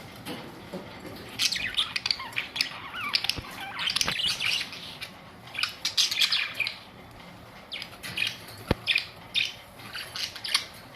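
Budgerigars chirping and chattering in many short, quick bursts, with a few sharp clicks among them.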